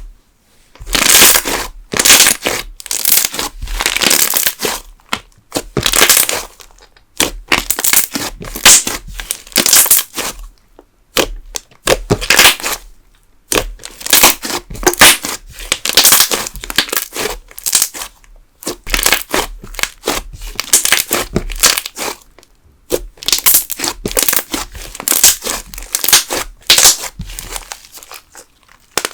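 Thick candle slime being squeezed and pressed by hand, giving loud crackling air-bubble pops in repeated bursts about a second apart, with a few short pauses.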